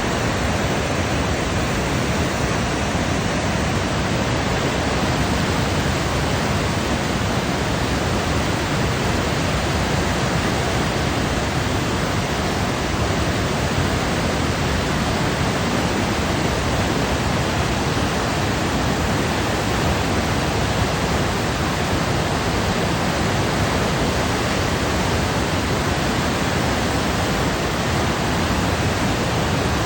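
Small but strong waterfall: water pouring and splashing in a steady, even rush with no breaks.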